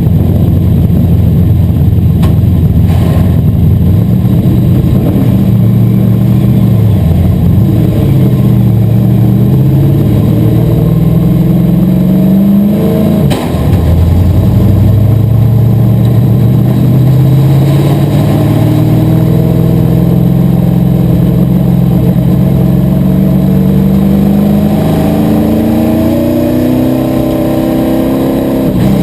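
Asphalt modified race car engine at racing speed, loud throughout, its pitch climbing steadily down the straights and falling off into the turns. About 13 seconds in the revs drop sharply with a brief dip in level before climbing again, and they fall once more near the end.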